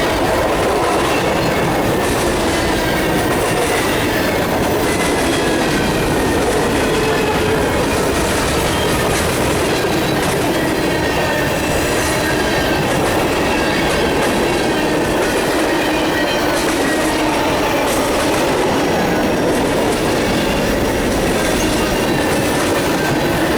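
Freight train rolling past at close range: a steady, loud rumble of wheels on rail, with faint wavering squeal from the wheels and occasional clacks over the rail joints.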